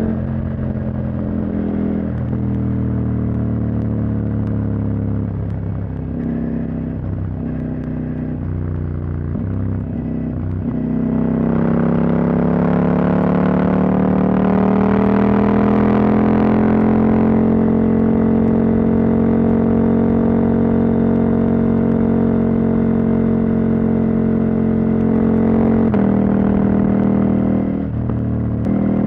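Husqvarna Norden 901's 889 cc parallel-twin engine running through a decat exhaust while riding. Several short dips in the note during the first ten seconds, then the pitch rises as it accelerates about eleven seconds in, and it holds a steady cruising note, with a brief drop near the end.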